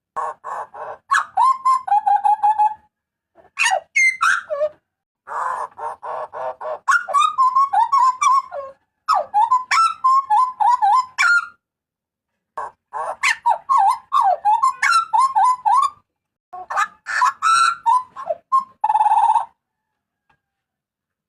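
Hooded butcherbird (jagal papua) calling loudly in bouts of rapid repeated notes, some harsh and buzzy, others gliding whistles. Short pauses fall between the bouts, and the calling stops about two seconds before the end.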